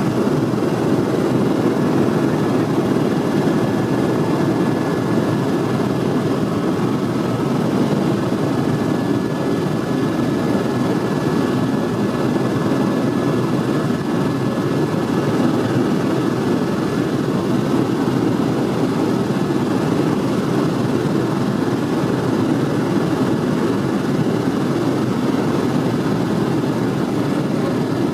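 Helicopter engine and rotor noise heard from inside the cabin in flight, a steady dense rumble with a faint thin whine above it.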